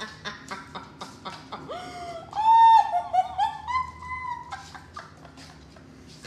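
Chicken clucking in quick short notes, then a rooster crowing: one long, loud, wavering call about two seconds in, followed by a few more short clucks.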